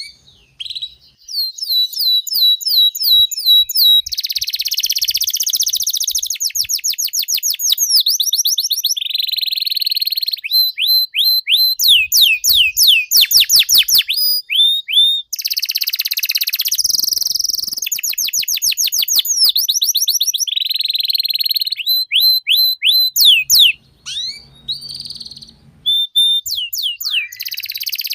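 Domestic canary singing a long, unbroken song of quick repeated notes and buzzy rolls, changing from one run to the next every second or two, high-pitched and loud.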